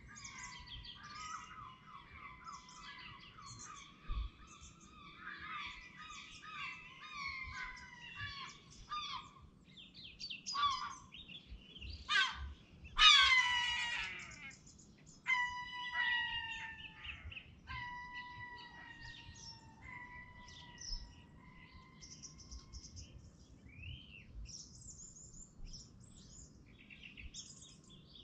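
Birds singing and calling: runs of chirps and trills, one loud descending call about halfway through, then several held whistled notes, over a faint steady background noise.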